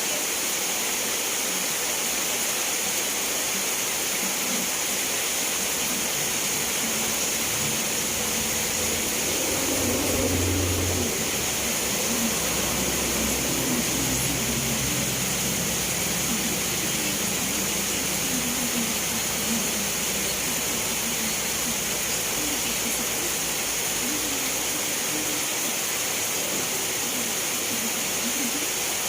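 Steady rain falling, an even hiss. A faint low hum comes in about a third of the way through and fades out again later on.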